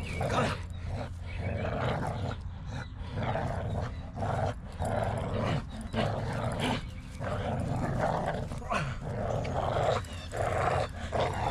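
A dog growling in rough, repeated pulses while gripping a bite suit during protection bite work.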